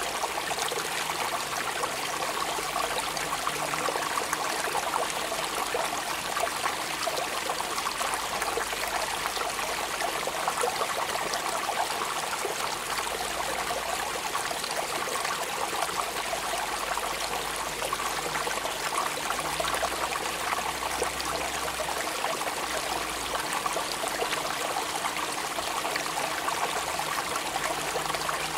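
Steady rain falling, an even dense wash of water sound with no change in level.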